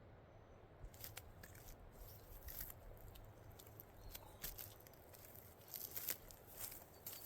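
Faint, irregular crackling and crunching clicks that begin about a second in and grow denser and louder towards the end.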